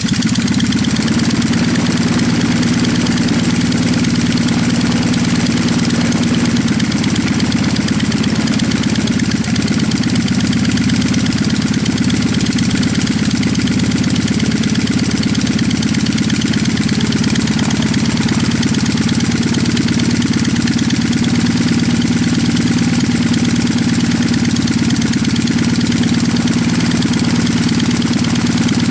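The 40 hp Mosler half-VW engine of a Preceptor N3 Pup ultralight aircraft, running steadily with its propeller turning, just after being started.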